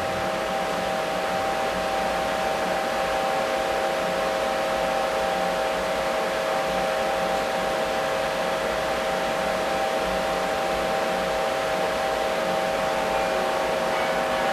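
Steady rushing air noise with a steady hum from a blower-type machine, even in level throughout.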